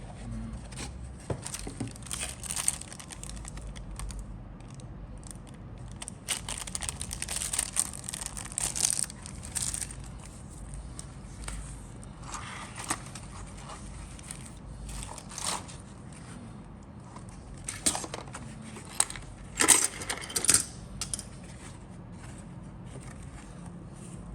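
Plastic-kit packaging and parts being handled: irregular rustling and crinkling with scattered clicks, loudest in a cluster of crackles near the end.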